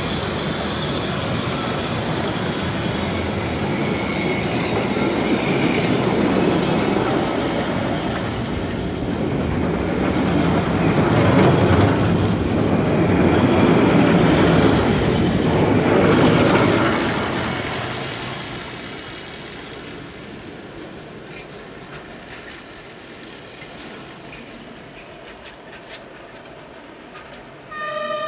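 Rhaetian Railway metre-gauge freight train passing close by, an electric locomotive followed by loaded log wagons: wheels rumbling and clicking over the rail joints, loudest about halfway through, then fading as the train draws away. A brief horn note sounds near the end.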